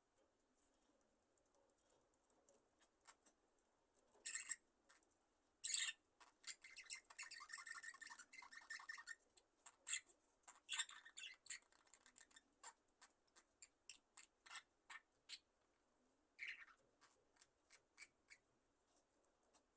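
A flock of budgerigars softly chirping and clicking: scattered short, high chirps, with a denser burst of chatter a few seconds in.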